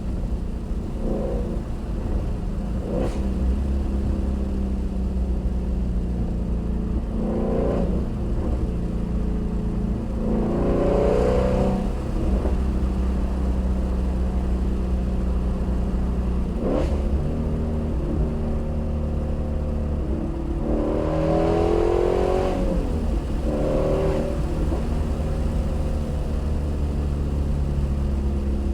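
Shelby GT350R's 5.2-litre flat-plane-crank V8 running under way. Its note sweeps up and down with revving about ten seconds in and again past twenty, and a few short sharp pops are heard.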